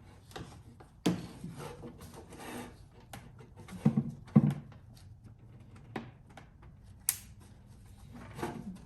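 Hand-handling noise on the BMW X5's plastic air-intake parts: scattered clicks and knocks with rubbing between them as the mass airflow sensor is worked out of its housing. The loudest knocks come about a second in and a pair about four seconds in.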